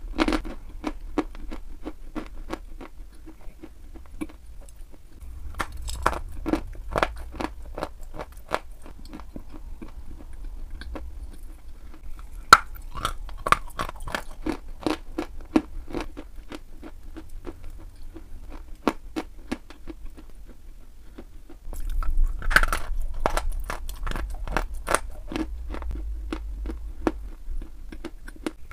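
Someone chewing dry chalk: a steady run of brittle crunches, with two heavier spells of crunching, one about a fifth of the way in and one near the end.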